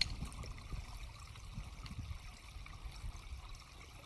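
Small creek trickling over rocks, with a low rumble underneath and a sharp click right at the start.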